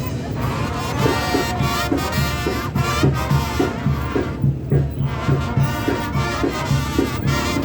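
Brass band music, with trumpets and trombones playing over a steady beat.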